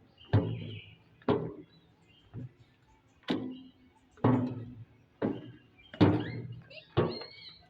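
Heavy footsteps thudding on a hollow, resonant surface, about one step a second, each with a short ring after it.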